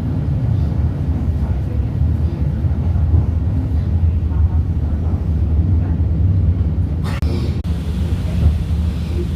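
Commuter train running: a steady, loud low rumble inside the carriage. A short hiss of about half a second comes roughly two-thirds of the way through.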